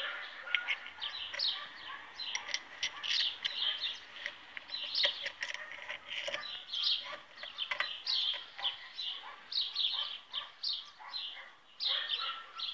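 Small birds chirping and twittering steadily, many short falling chirps a second, with a few light clicks mixed in.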